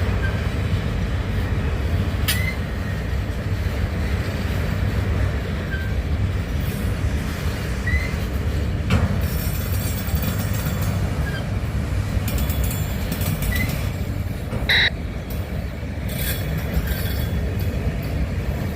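Freight train cars rolling through a rail yard: a steady low rumble, with short high wheel squeals every few seconds, the loudest about 15 seconds in, and a few sharp clicks from the wheels over rail joints.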